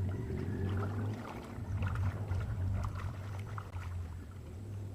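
Swimming water moving gently, with small faint splashes and a low steady rumble, while two people hold their breath under the surface.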